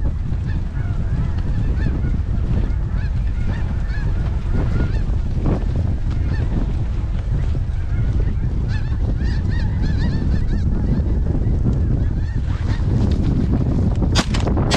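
A flock of snow geese calling, many overlapping high honks, over heavy wind rumble on the microphone. Right at the end, sharp bangs begin.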